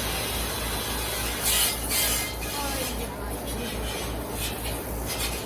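Wiping and scrubbing strokes on a bird cage, with two short louder hissing bursts about one and a half and two seconds in, over a steady low hum.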